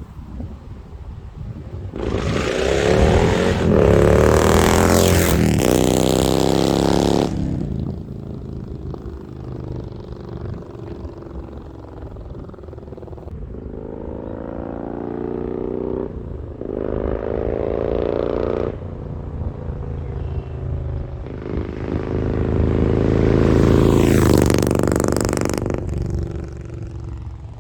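Harley-Davidson Road Glide Special's Milwaukee-Eight V-twin, with an SS 475 camshaft, heat-wrapped headers and Mutazu 2.0 megaphone slip-on mufflers, accelerating under way three times. Each pull rises in pitch and then drops back as the throttle closes.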